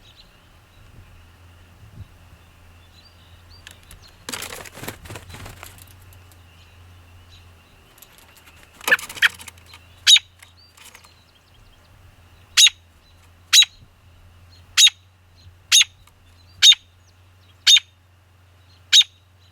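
American robin giving sharp single call notes, about one a second through the second half. A brief rustling burst comes about four seconds in.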